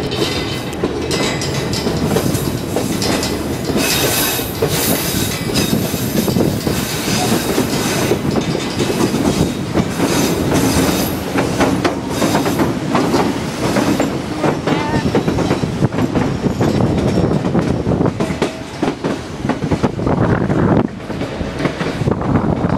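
White Pass railway passenger train running along the track, its wheels rumbling and clattering steadily on the rails, heard from on board.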